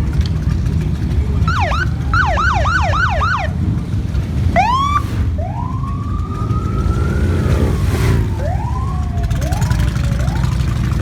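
Electronic sirens whooping and chirping: a quick run of about five falling chirps, then rising whoops and a long slow rise and fall, over a steady low rumble of motorcycle engines.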